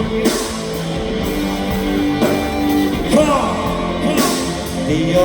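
Rock music: a band with guitars playing between sung lines, with the singer coming back in near the end.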